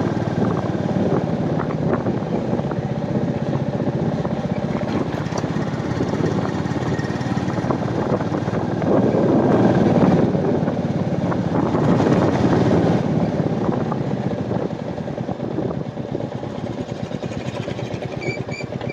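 Royal Enfield Meteor 350's single-cylinder engine running steadily as the motorcycle is ridden, mixed with wind and road noise. It gets louder for a few seconds in the middle, then eases off.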